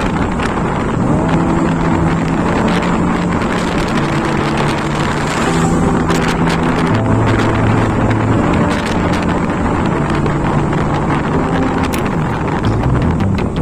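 Motorcycle engine running at riding speed, its pitch holding steady and then shifting as the speed changes, with a downward glide near the end. Wind buffets the microphone.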